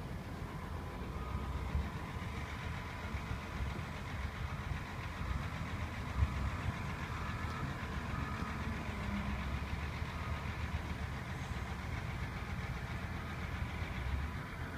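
Excavator's diesel engine idling steadily, a low even rumble with a faint steady whine above it.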